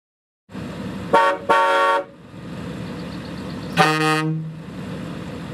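Vehicle horn honking three times: two short toots close together, then a longer, lower one, over a steady background hiss.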